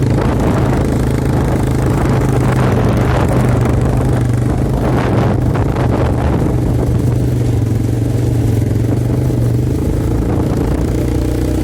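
Quad bike engine running with a steady drone, its pitch shifting lower near the end.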